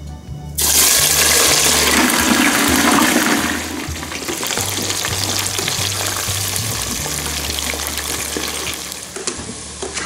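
A burst of loud sizzling as wet food or liquid hits a hot oiled pan in a chicken and cauliflower stir fry. The sizzling settles after a few seconds into steady frying.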